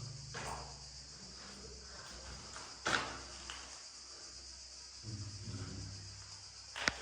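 Steady high-pitched insect chorus buzzing without a break, with a sharp click about three seconds in and another just before the end.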